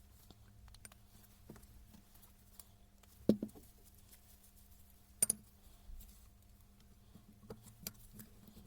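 Scattered clicks and knocks of parts being handled, the loudest a dull knock about three seconds in and a sharp double click about five seconds in, over a faint steady hum.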